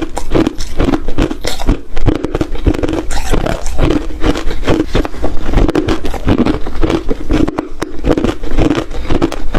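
Ice being bitten and chewed close to the microphone: a steady run of loud, sharp crunches.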